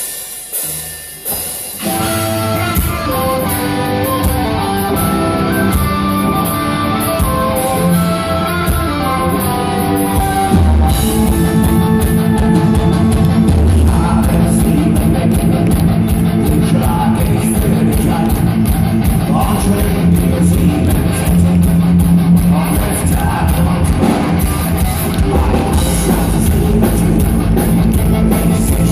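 Live folk-metal band playing loud: a melodic instrumental opening line, then the drums and heavy guitars come in with the full band about ten seconds in.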